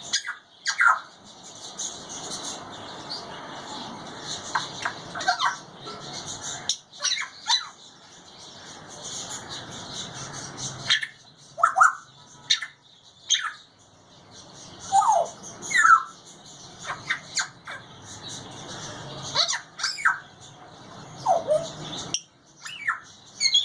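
African grey parrot calling in short squawks, whistles and clicks: many quick notes that slide up and down in pitch, over a steady background hiss.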